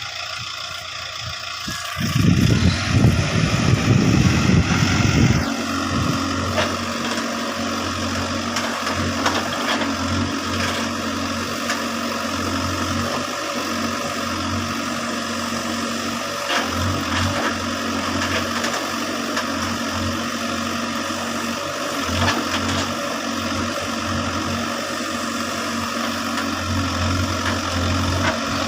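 Diesel engine of a Case backhoe loader: it turns loud and rough for a few seconds starting about two seconds in, then settles into a steady, even run.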